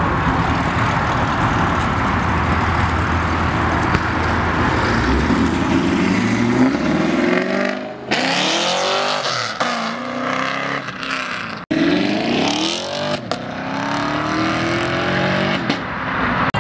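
Car engines revving hard and accelerating, their pitch climbing again and again. A dense, steady rush of noise fills the first several seconds, then gives way to a series of rising revs, broken off abruptly about halfway and again about two-thirds in.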